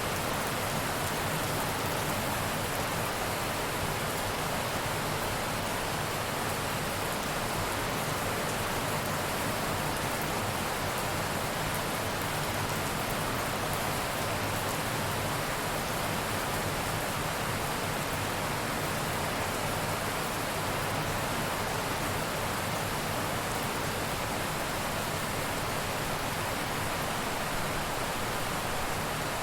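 Steady rain falling, an even, unbroken hiss of water with no thunderclaps.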